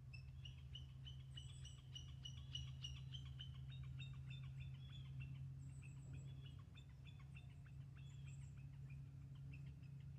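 Small birds chirping in a quick, continuous series of short high notes, with a few thinner, higher notes mixed in, thinning out near the end. A faint steady low hum runs underneath.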